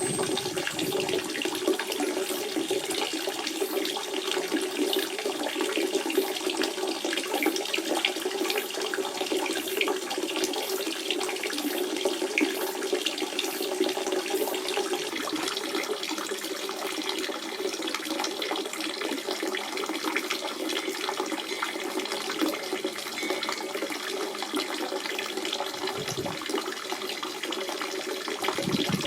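Natural spring water running steadily, with many small splashes over a constant rushing flow.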